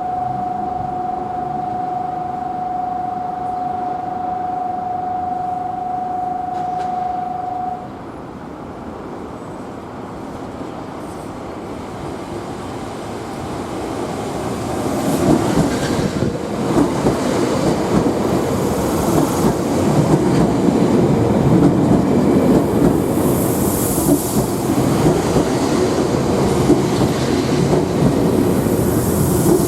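A steady single-pitched electronic tone sounds for about eight seconds and stops. A Nankai electric train then rumbles in through the station, growing louder with wheels clattering over rail joints, and brief high wheel squeals come near the end.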